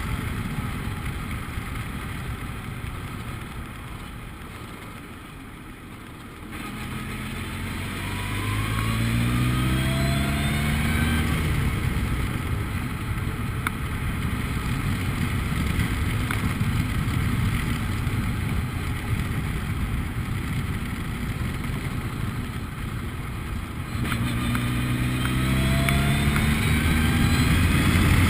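Formula Ford race car engine running at speed. It drops away a few seconds in as the throttle comes off, then revs rise again, once after about eight seconds and again near the end.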